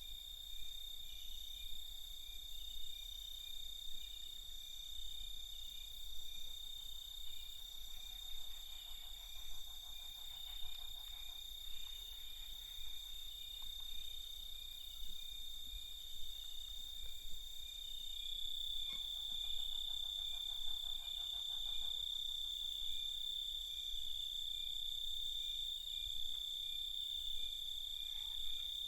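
A night chorus of crickets: several steady, overlapping trills at different pitches, the strongest one growing louder about two-thirds of the way through. A lower, fainter pulsing trill joins in twice.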